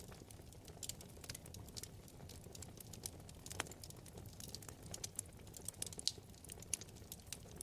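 Wood fire in a fireplace crackling: many small irregular snaps and pops, one sharper pop about halfway through, over a steady low rumble of the flames.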